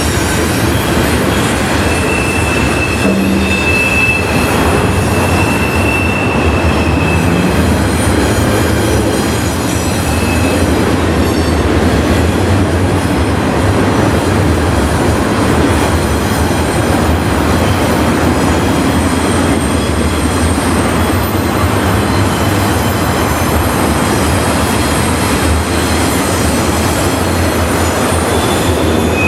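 Freight train cars rolling steadily past, a continuous loud rumble of wheels on rail. A thin, high wheel squeal rises over it from about two to seven seconds in, and briefly again near ten seconds and at the end.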